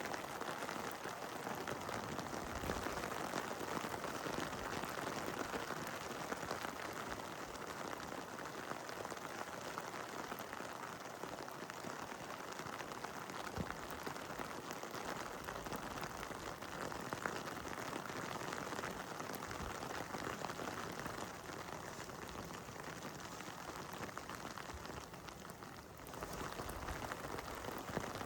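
Heavy rain falling steadily, a dense patter of drops that dips briefly in level near the end.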